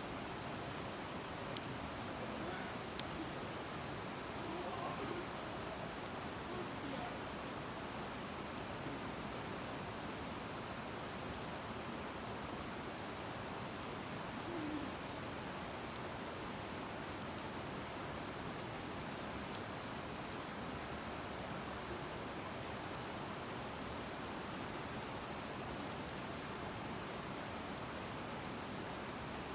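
Wood campfire burning in a fire stand, crackling with scattered sharp pops over a steady hiss.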